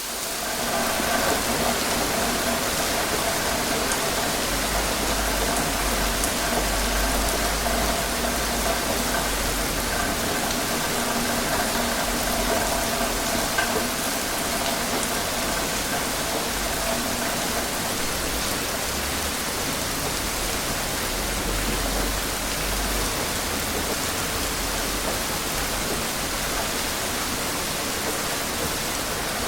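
Steady rain falling, an even hiss with a deep rumble that swells now and then.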